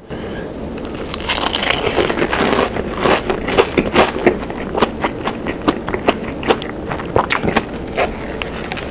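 A mouthful of crisp deep-fried breaded balls, two at once, being chewed with dense, irregular crunching.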